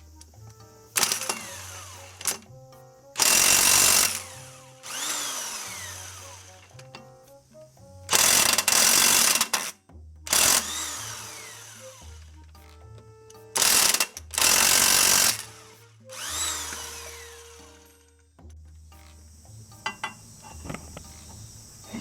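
Background music with a stepping bass line, broken by about five loud bursts of a power tool, each about a second long, several of them followed by a falling whine as the tool spins down.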